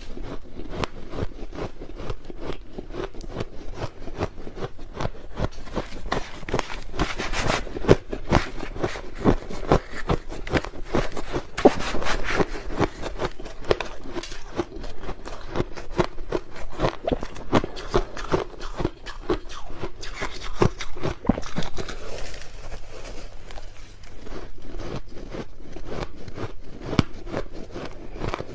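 Crushed ice crunched between the teeth in close-up, a dense, continuous run of sharp crackles and crunches.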